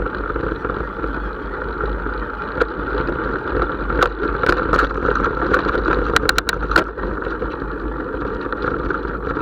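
Steady vehicle running noise, with a cluster of sharp clicks about four to seven seconds in.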